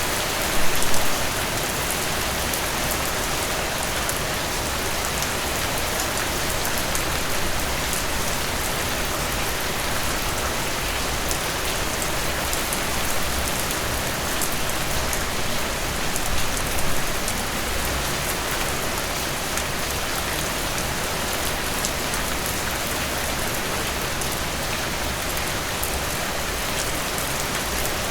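Heavy rain falling steadily, an even hiss of drops on surfaces, with brief louder swells about a second in and again around sixteen seconds in.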